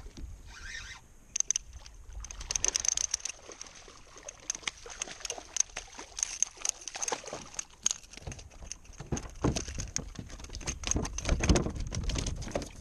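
Water splashing and sloshing around a kayak as a hooked redfish is fought close to the boat, with irregular splashes that come thickest and loudest near the end.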